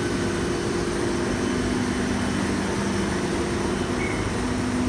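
Steady hum of an electric train, a low drone carrying a couple of unchanging tones.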